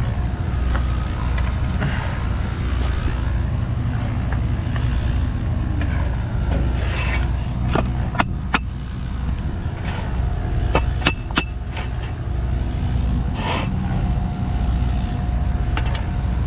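Steady low rumble of a running vehicle engine, with a few sharp clicks and knocks around the middle.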